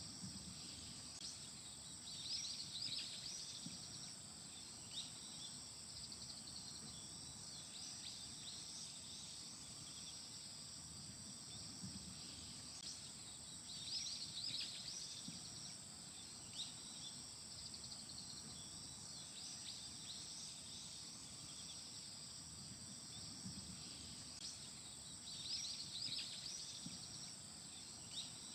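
Autumn insects chirping in a steady high-pitched chorus, with louder clusters of chirps about every twelve seconds.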